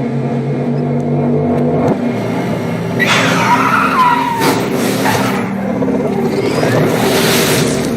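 Car chase sound played in reverse: a steady low drone at first, then from about three seconds in, loud swells of car engine and tyre-skid noise with squealing glides, all running backwards.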